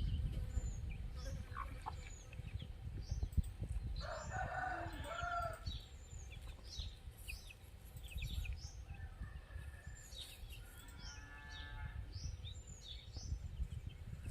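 A rooster crowing about four seconds in, with a fainter crow later, over small birds chirping repeatedly and a low rumble.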